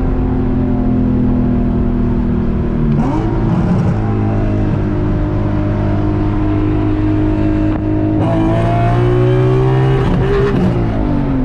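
Infiniti G37's 3.7-litre V6, fitted with aftermarket cams, running at highway speed as heard from the cabin. Its note shifts about three seconds in. From about eight seconds it grows louder and climbs in pitch as the car accelerates, then falls away near the end.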